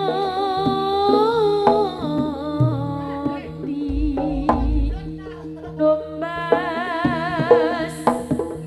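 Live East Javanese jaranan music: a wavering, held melody line, sung or played on a reed horn, over drum strokes, with deep low booms now and then.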